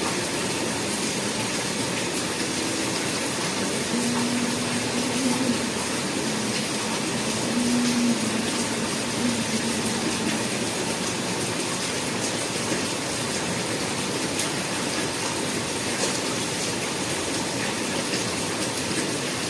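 Heavy rain falling steadily, a constant dense hiss. A faint low hum comes and goes during the first half.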